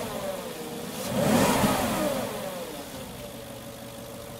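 Porsche Cayenne Turbo's twin-turbo V8 blipped once about a second in, its pitch rising and falling, then settling to a steady idle. Under the revving there is a light clatter from the camshaft area, put down to the hydraulic lifters; otherwise the engine sounds okay.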